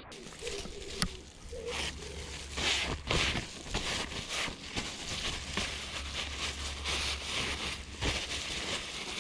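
Hands working a freshly oiled dirt-bike foam air filter, squeezing and handling it: irregular rustling and scraping noises, with a low hum coming and going.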